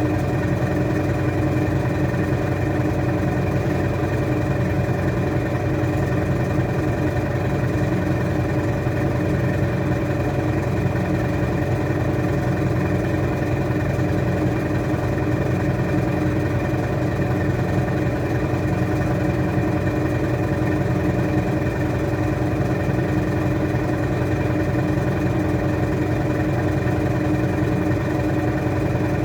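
Washing machine spinning at a constant speed: a steady hum made of several held tones that does not change.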